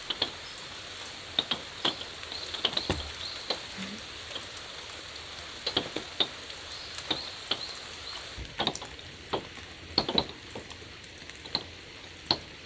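Steady rain hiss with scattered heavy drops tapping irregularly on a hard surface, a few of the taps much louder than the rest.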